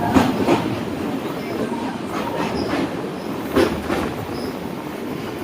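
Train running on the rails: a steady rumble with irregular clanks and clicks from the wheels over the track.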